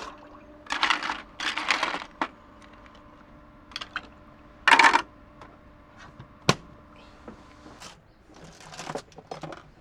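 Handling sounds of camp food preparation: a few short rustles and scrapes and several sharp clinks. A faint steady hum underneath stops near the end.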